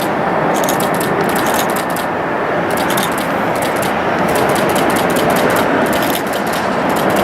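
Jet airliner engines running at a steady loud level, with many irregular sharp clicks or crackles over the top.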